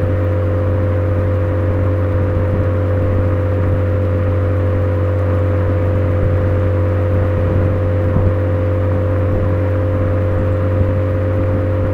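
Suzuki Swift Sport ZC33S's 1.4-litre turbocharged four-cylinder running at a steady speed through a Fujitsubo aftermarket exhaust: a continuous engine and exhaust drone with a deep hum under a steady higher note.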